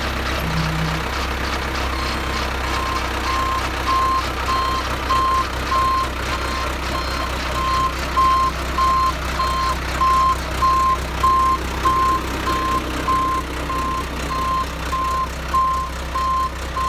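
Ford 655C backhoe engine running steadily while its reversing alarm starts beeping about three seconds in and keeps up an even beep-beep as the machine backs up.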